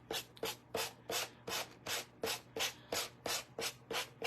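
Hand sanding with a small Gator sander: even back-and-forth rubbing strokes, about three a second, along the edge of a wooden heart to take off excess decoupaged napkin.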